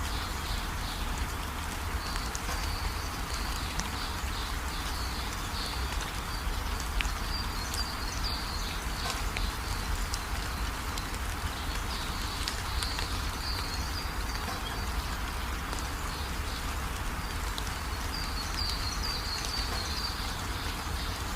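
Steady rain, with short high chirping calls of small animals coming in a few spells over the rain.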